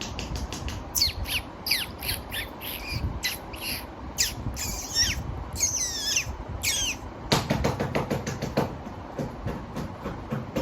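Strange high squeaky squawks, a quick run of short calls, each sliding steeply down in pitch, over a fast steady clicking; about three-quarters of the way through, a rattling burst of about a second and a half.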